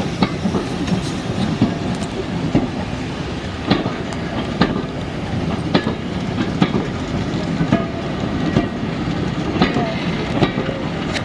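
Train running on the rails: a steady rumble with the clickety-clack of wheels passing over rail joints, sharp clicks about once a second.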